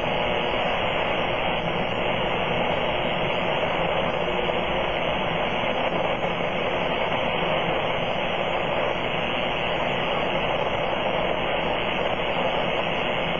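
Apparent powerline noise (RFI) on the 80-metre amateur band, heard through a Kenwood TS-480 transceiver's receiver: a steady hash of static at about S7 that fills the audio and would bury weaker stations.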